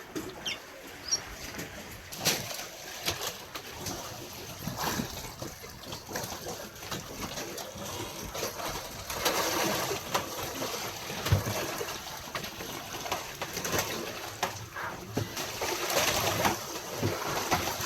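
Sea water splashing and sloshing around the boat, with scattered knocks and clicks and a louder rush of splashing about halfway through.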